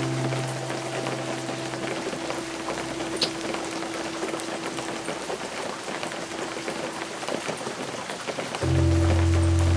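Steady rain falling, a dense even patter of drops. Soft held low notes of ambient music sound under it and die away by about the middle, and a new, louder held chord comes in near the end.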